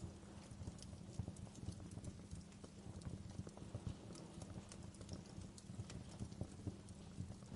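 Wood fire crackling in a fireplace, burning low and even: small irregular pops and snaps over a steady low rumble.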